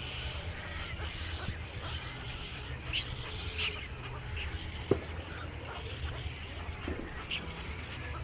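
Birds chirping in short calls over a steady low hum, with a single sharp click about five seconds in.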